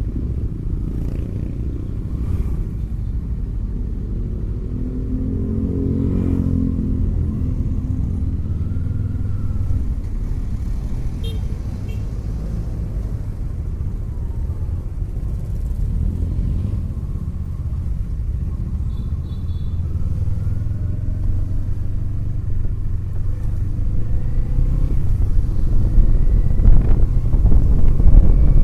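The 2024 Kawasaki Eliminator SE's parallel-twin engine running in slow city traffic, a steady low rumble mixed with the traffic around it. The rumble grows louder over the last few seconds.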